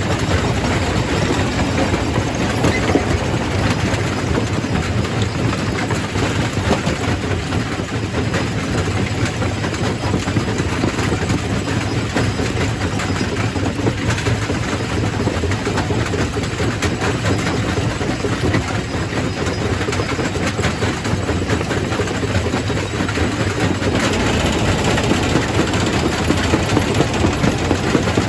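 Quarry primary rock crusher running, with a steady low machine drone under a dense, continuous clatter of rock cracking and knocking as it is crushed, a little louder near the end.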